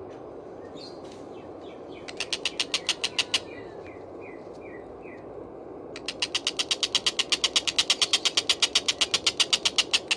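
Stork-billed kingfisher (tengkek buto) giving its fast, harsh rattling chatter at about eight notes a second. There is a short run about two seconds in, then a longer one from about six seconds on, with a few short falling notes between them.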